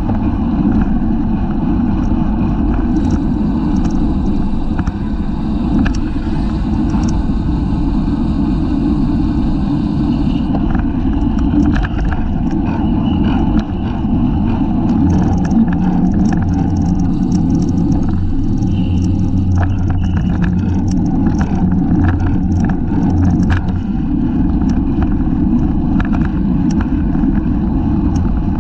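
Steady low wind rumble on a rear-facing bicycle camera's microphone while riding in a race, with scattered light ticks and clicks over it.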